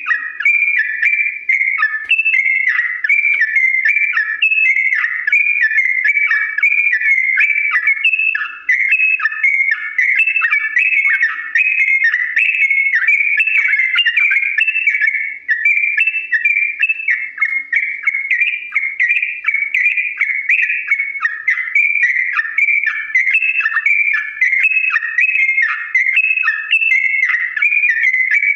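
Yellow-vented bulbul (trucukan) singing a long, unbroken run of rapid whistled notes.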